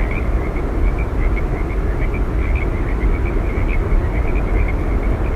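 Steady low roar of Yosemite Falls, with many short, high chirps scattered through it.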